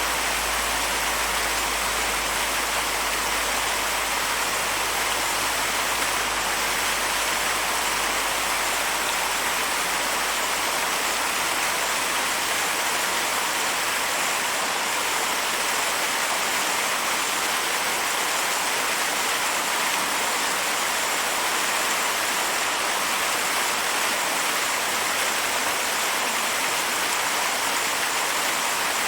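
Forest waterfall: a steady rush of water falling over rocks, with the hiss strongest in the upper range and no change in level.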